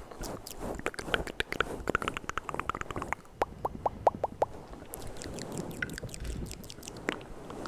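Wet ASMR mouth sounds close to the microphone: rapid tongue and lip clicks and pops, with a quick run of short pitched pops about halfway through.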